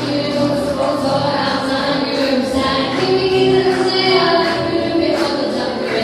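Young voices singing a song together, with held sung notes over music.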